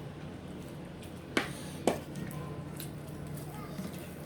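Mealtime tableware sounds: two sharp clicks about half a second apart, like a utensil or dish knocking against a plate, with soft squelching of food over a steady low hum.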